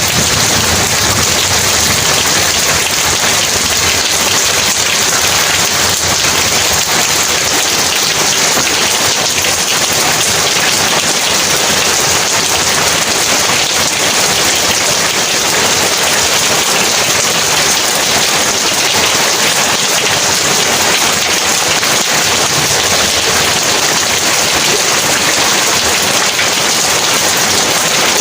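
Heavy rain falling steadily, a dense even downpour on surfaces with no break or change.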